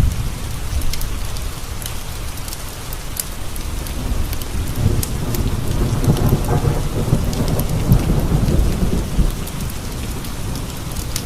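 Steady heavy rain with a long rolling rumble of thunder that swells about halfway through and fades near the end. Scattered sharp pops of a crackling wood fire in a stone fireplace run through it.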